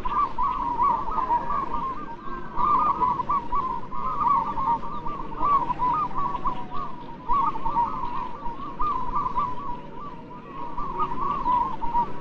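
Many zebra doves (merbok, perkutut) cooing and trilling at once. Their quick, wavering notes overlap without a break.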